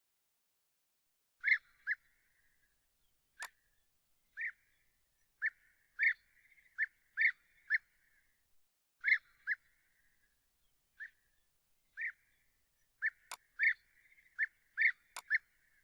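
A bird giving a series of short, sharp call notes at irregular intervals, each with a faint echoing tail, mixed with a few sharp clicks.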